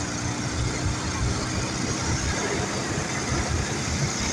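Ural motorcycle's flat-twin engine running while riding, its low pulsing rumble under a steady hiss of wind and road noise, freshly rebuilt after a major overhaul.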